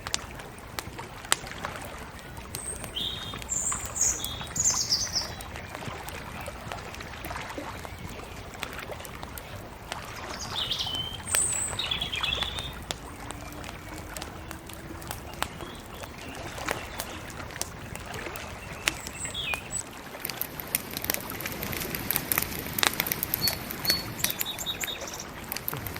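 Bonfire crackling with a steady scatter of small pops, growing denser and hissier near the end. Birds chirp in a few short bursts over it.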